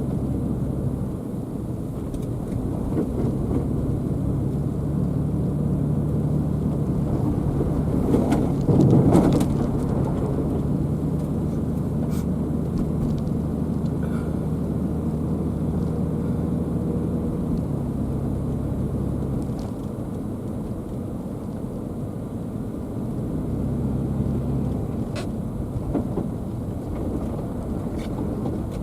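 Car driving: steady engine hum and road rumble, with a louder rush of noise about eight to nine seconds in.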